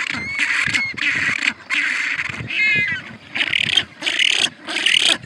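Animal calls: a run of harsh, raspy cries, each about half a second to a second long with short breaks between them. About two and a half seconds in comes a brief wavering pitched cry.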